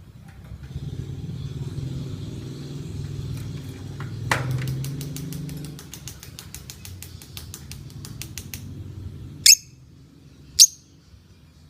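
A lovebird's chattering 'ngekek' call: a fast run of sharp notes, about six a second, lasting some four seconds, followed by two loud shrill chirps about a second apart. A motor hums low underneath during the first half.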